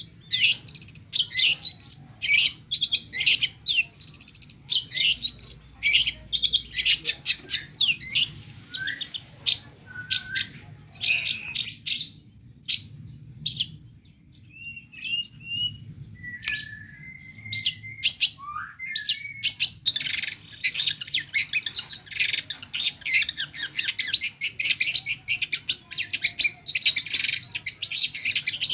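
Long-tailed shrike singing in fast, chattering runs of high notes laced with mimicked calls of other birds. It eases off to a few sliding whistles around the middle, then resumes densely.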